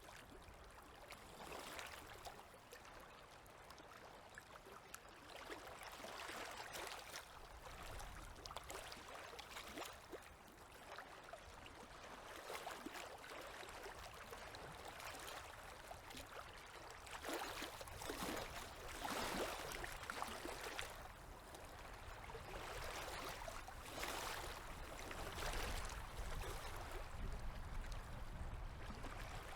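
Small waves lapping and splashing at a river's edge, rising and falling in uneven swells, over a low rumble.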